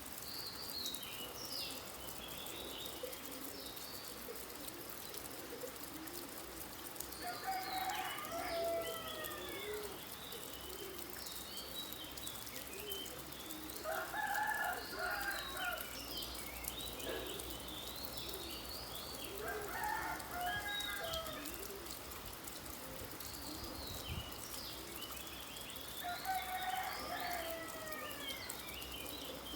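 Birds chirping over a steady patter of rain, with a louder, longer bird call coming four times, about every six seconds.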